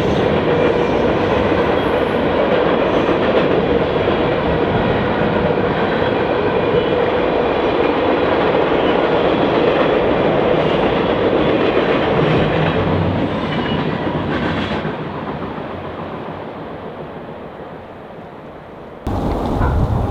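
Train cars rolling past on the rails: steady wheel-and-rail noise with a ringing tone, fading away from about two-thirds of the way through as the train recedes. About a second before the end it cuts suddenly to wind buffeting the microphone.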